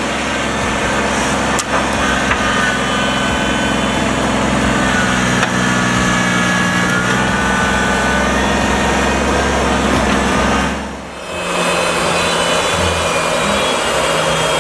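A machine's engine running steadily, with a thin whine over it. About eleven seconds in the sound drops briefly and comes back as a different steady engine note.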